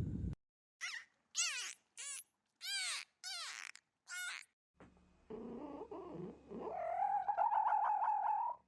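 A cat meowing: six short, high meows in quick succession, then one longer wavering call that rises in pitch partway through.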